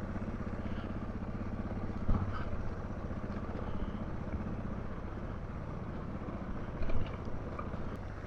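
Suzuki DR650's single-cylinder four-stroke engine running at low, steady speed while the bike is ridden slowly over rough, rocky trail, with two louder knocks about two seconds in and near the end.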